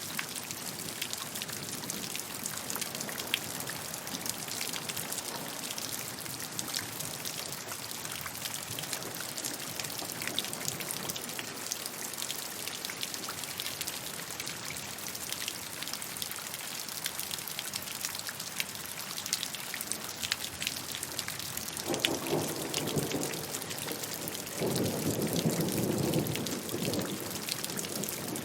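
Steady rainfall with many individual drops pattering on a surface. A low rumble comes in about three-quarters of the way through and swells near the end, like distant thunder.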